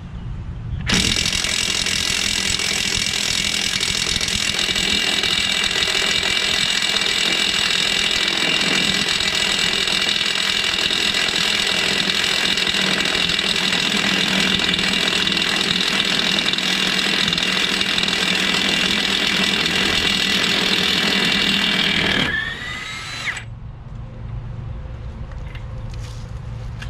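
Power impact wrench running continuously for about twenty seconds on a trailer hub nut, then winding down with a falling whine as the trigger is released.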